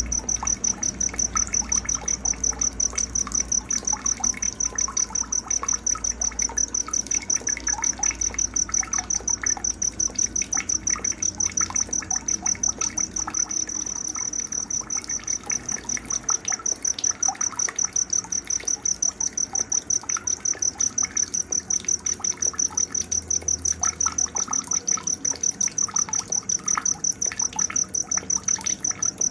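A cricket chirping in a steady, evenly pulsed high trill, about four pulses a second, with scattered bird chirps beneath it.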